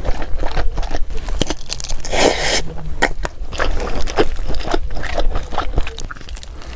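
A person chewing and biting crunchy food close to the microphone, a fast run of crisp crunches, with one longer, louder burst of noise a little over two seconds in.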